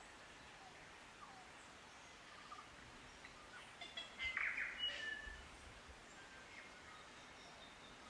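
New Zealand native forest birds calling: scattered faint short notes, with a louder burst of varied chirps and a sharp whistle about halfway through.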